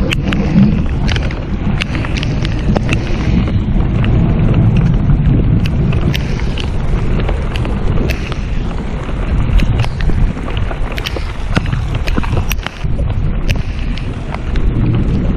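Heavy rain pelting down, with a steady low rumble of wind buffeting the microphone and many sharp taps of drops striking the camera.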